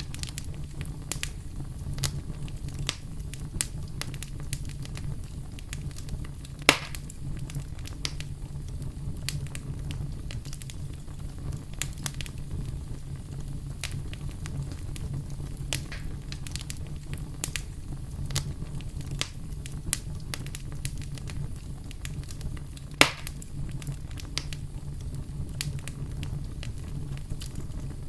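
Wood fire burning in a fireplace: a steady low rumble with frequent small crackles, and two louder snaps, about 7 seconds and 23 seconds in.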